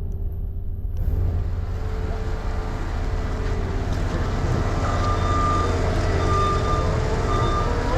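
A steady low rumble of vehicle engines and street traffic; about five seconds in, a truck's reversing alarm beeps three times, about a second apart.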